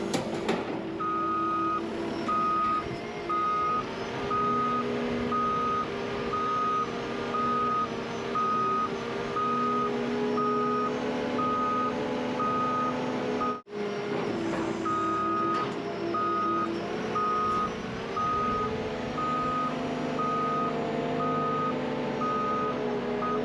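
A machine's reversing alarm beeping steadily, about three beeps every two seconds, over its engine running as it backs up. The beeping drops out for a moment about two-thirds of the way through, then carries on.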